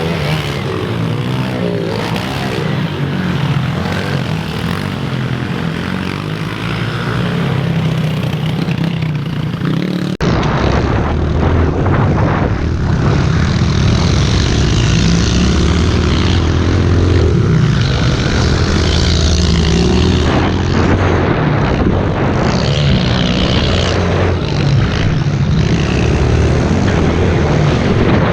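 Small single-cylinder pit bike engines revving up and down as the bikes ride a muddy track. About ten seconds in the sound changes abruptly and becomes louder and deeper.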